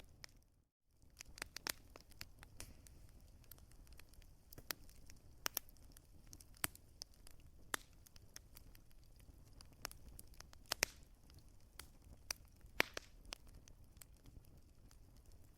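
Wood fire crackling: irregular sharp pops and snaps, a few markedly louder, over a faint low rumble. The sound drops out abruptly for a moment just under a second in.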